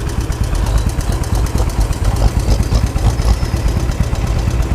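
A vintage motor cart's engine ticking over with a fast, even knock, with a noisy tractor puller running in the background.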